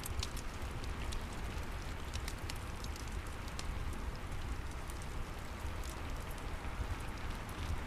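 Steady rain with a low rumble beneath it, and scattered sharp crackles and pops from a wood fire in a fireplace.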